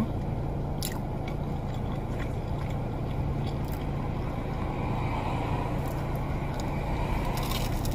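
Chewing a crunchy Korean corn dog, a few faint crunching clicks, the strongest near the end, over a steady low hum and rumble.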